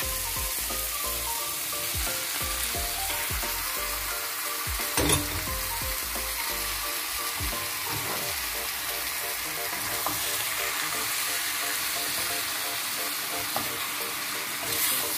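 Onion, tomato, garlic and ginger frying in a wok with a steady sizzle, and a single thump about five seconds in as raw chicken parts are tipped into the pan.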